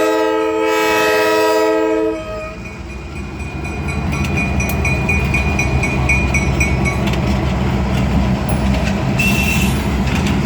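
Diesel locomotive air horn sounding one long multi-note chord for about two seconds, followed by the locomotive's diesel engine rumbling and growing louder as it pulls ahead. A bell dings rapidly for a few seconds in the middle.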